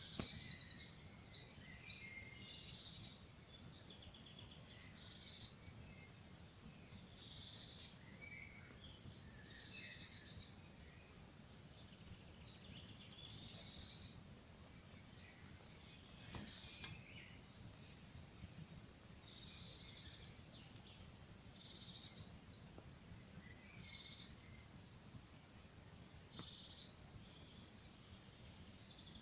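Forest songbirds chirping and singing in short, quick phrases, one after another, over a faint low rumble. One sharp click about halfway through.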